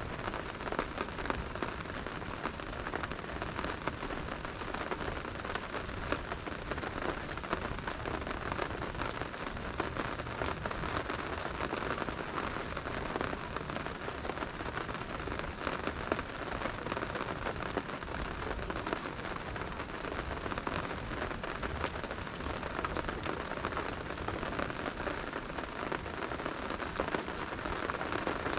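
Steady rain falling, a dense, even patter of drops with many small, sharp ticks.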